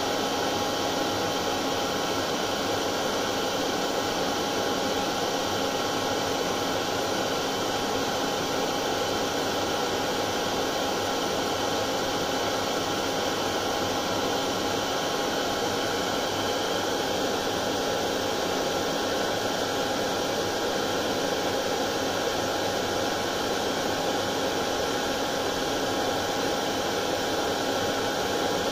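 Hair dryer running continuously: a steady whoosh of air with a constant motor hum and whine, unchanging throughout. It is played as soothing white noise for a colicky baby.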